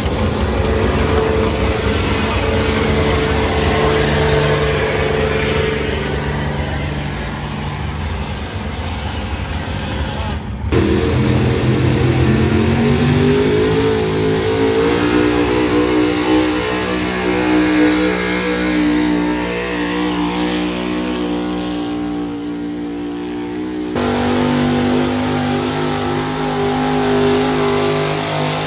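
Loud engine of a pulling truck or tractor running hard under load. About ten seconds in the sound breaks off sharply and the engine pitch climbs over a few seconds. About twenty-four seconds in it changes abruptly again.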